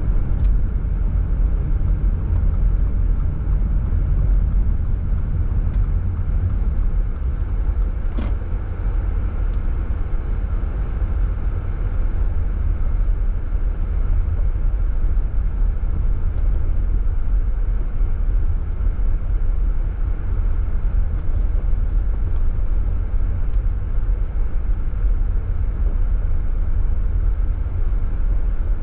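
Car driving along a road: a steady low rumble of tyre and engine noise, with a faint click about eight seconds in.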